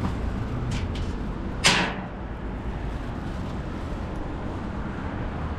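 A steady low rumble, with two faint clicks about a second in and then a single sharp clunk, the loudest thing here, that rings away briefly.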